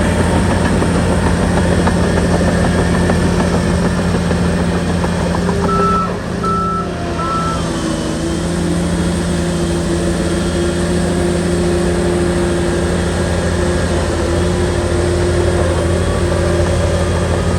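Shantui bulldozer's diesel engine running steadily. About six seconds in, the engine note dips briefly while a reversing alarm beeps three short times.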